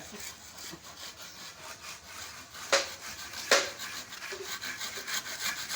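Hand saw cutting through wood with fast back-and-forth strokes, a steady rasping, broken by two sharp knocks about three and three and a half seconds in.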